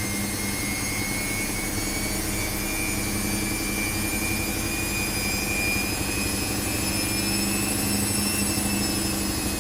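Washing machine running: a steady hum under a high motor whine that rises slowly in pitch.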